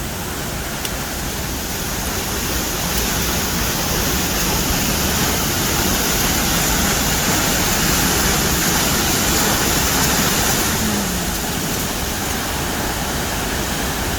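Steady rush of a river or waterfall, swelling slightly in the middle and easing a little near the end.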